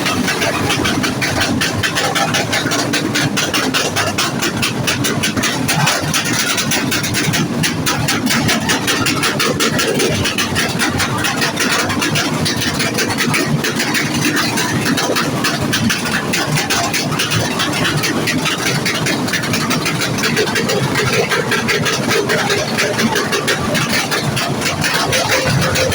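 A vehicle engine running loudly and steadily with a rapid, rough pulse.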